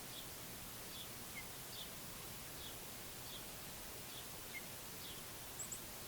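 Small songbirds chirping: short chirp notes repeating about once a second over a steady background hiss, with two quick high-pitched notes near the end.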